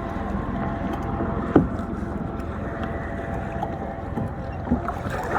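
Wind buffeting the microphone on a kayak on choppy water, a steady low rumble, with a few sharp knocks, the loudest about a second and a half in.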